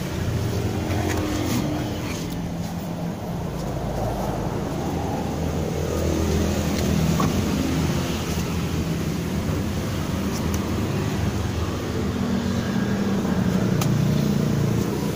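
Toyota Calya's 1.2-litre four-cylinder engine idling steadily, with a few faint clicks and knocks from handling in and around the car.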